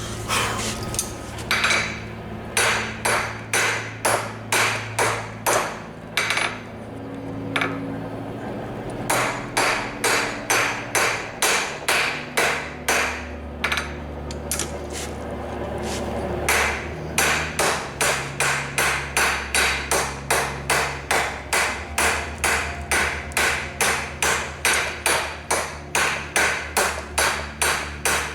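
Blacksmith's hammer striking hot steel on an anvil in steady runs of blows, about two a second, with a couple of short pauses between runs.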